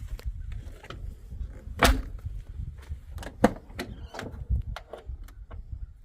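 A series of sharp knocks and clicks over a low rumble, the loudest two about two seconds in and again about three and a half seconds in.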